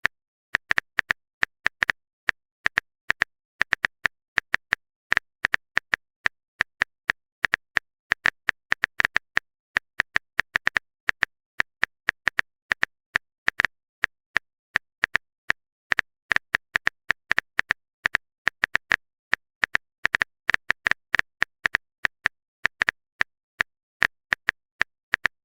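Phone keyboard typing sound effect: short, sharp key clicks, a few a second at an uneven pace, with silence between them.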